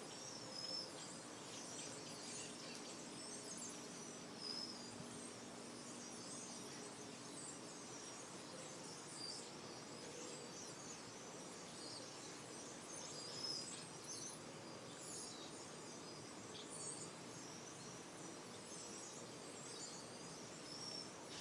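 A faint chorus of many small birds chirping, with short, high calls overlapping one another.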